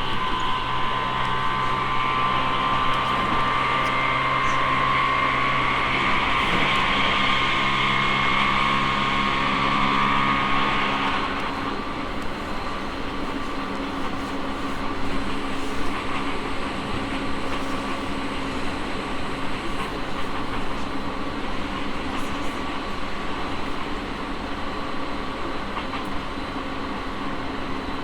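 E217-series electric train heard from on board, its traction motors and inverter whining in several steady tones over the running rumble. The whine cuts off about eleven seconds in, leaving the rumble of the wheels on the track.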